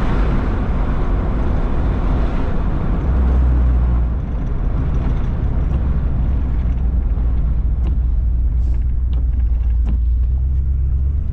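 Steady low rumble of a vehicle on the move, heard inside the cabin, with a broad hiss that fades after the first few seconds.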